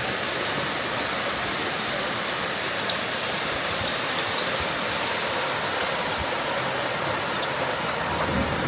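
Steady rush of water, an even hiss with no let-up.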